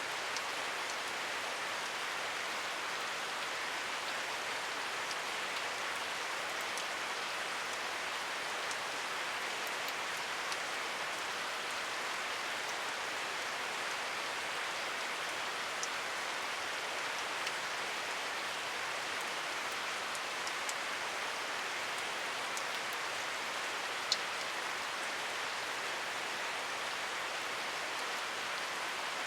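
Steady rain falling, an even hiss with scattered drops ticking, one a little sharper about 24 seconds in.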